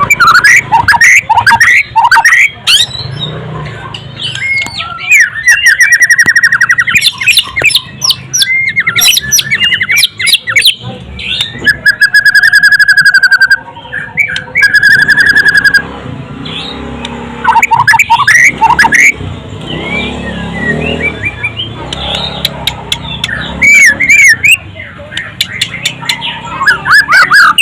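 White-rumped shama (murai batu) singing loudly: a long, varied song of whistles and pitch glides broken by rapid trills.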